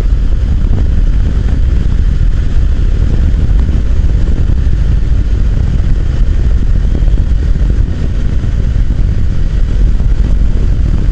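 Motorcycle running steadily at cruising speed, with a heavy low rush of wind over the microphone.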